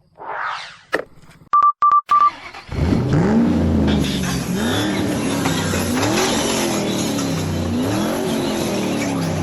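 Electronic sound effects from a toy Optimus Prime RC robot car: a whoosh, three short beeps, then a looping engine-rev sound whose pitch rises and falls about every second and a half.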